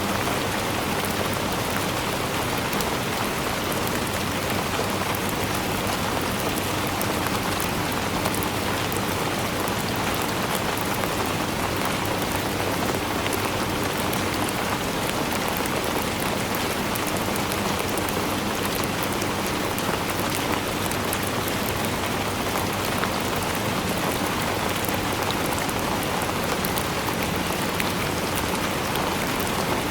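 Steady rainfall, a dense even hiss of drops hitting a surface with fine patters of individual drops throughout.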